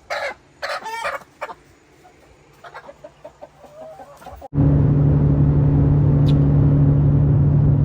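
Chickens clucking, loudly at first and then fainter. About four and a half seconds in, they give way abruptly to the loud, steady drone of a vehicle engine and road noise.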